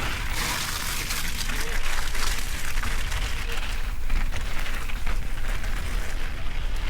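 Mountain bike ride on a wet trail in the rain: a steady wet hiss with scattered small knocks and clicks, over a constant low wind rumble on the microphone.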